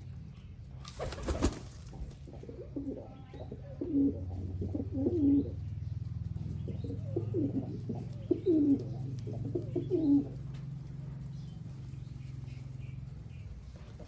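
Pigeons cooing, a series of repeated falling coos in bouts between about three and ten seconds in, over a steady low hum. A short, loud burst of noise comes just after a second in.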